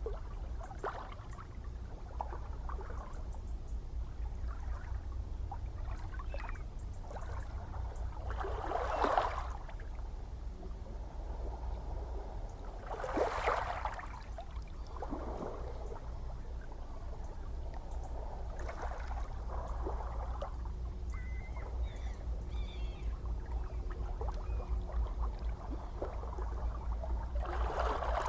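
Gentle ocean waves lapping and splashing over a steady low rumble of surf, with louder washes about 9 and 13 seconds in and again near the end.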